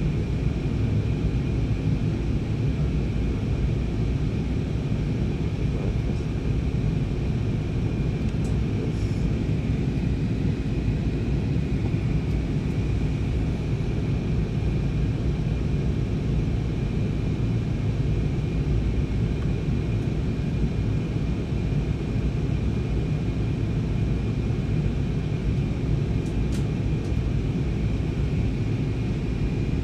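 Steady drone of an airliner's engines and airflow heard from inside the passenger cabin, heaviest in the low end, with a faint steady high whine over it.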